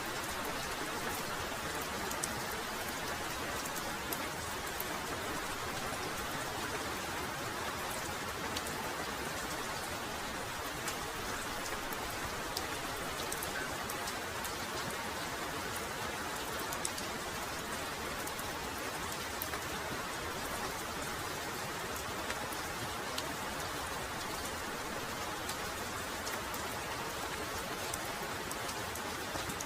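Heavy rain falling steadily, a dense even hiss with scattered sharp drop impacts.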